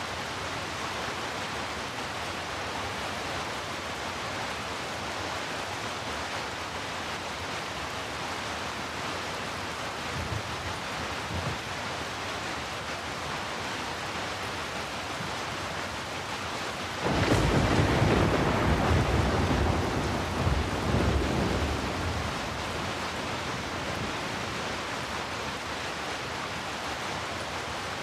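Steady rain with thunder: faint low rumbles about ten seconds in, then a loud thunderclap a little past halfway that rumbles on for about five seconds before the rain alone continues.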